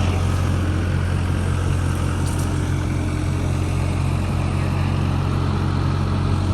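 Mini excavator engine running steadily with a constant low hum.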